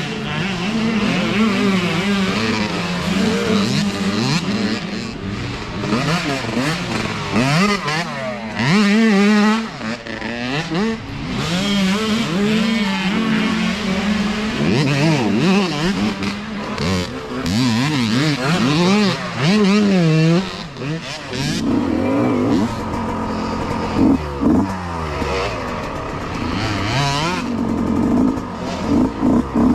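Several mini dirt bike engines revving hard together, their pitches rising and falling over one another with throttle and gear changes as the bikes race past.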